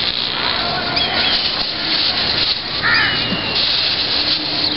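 Outdoor noise with a few short, harsh bird calls, about a second in and again about three seconds in.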